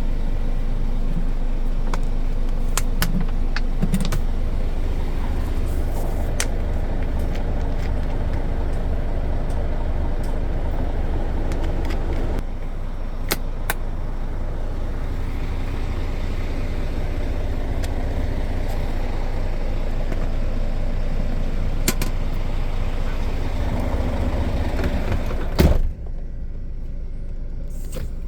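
Heavy truck's diesel engine and road noise heard from inside the cab: a steady low rumble with scattered clicks and rattles. The sound eases off about twelve seconds in, and near the end a sharp knock is followed by a quieter, duller running sound.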